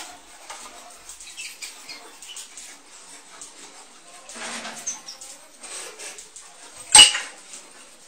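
A small cage bird moving about on a wooden drinking stand: scattered light clicks and metallic clinks of claws on the wood and the hanging chain, with a brief rustle about halfway through. One sharp, loud knock about seven seconds in.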